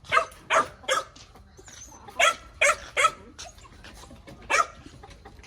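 A dog barking in short, sharp barks: three quick ones, three more about two seconds in, then a single bark near the end.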